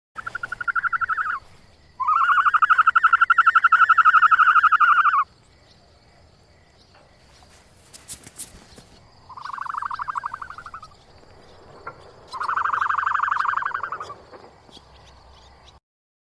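An animal giving four rapid trilled calls, each a fast run of pulses lasting one to three seconds, the longest about two seconds in. A brief crackle comes near the middle, under a faint steady high hiss.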